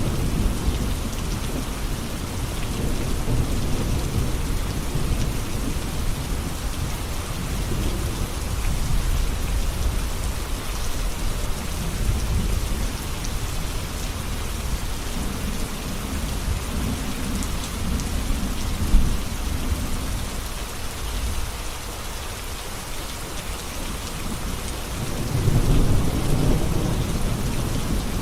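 Steady heavy rain pattering, with low rolling thunder rumbling in waves: one long rumble through the middle and a louder swell near the end.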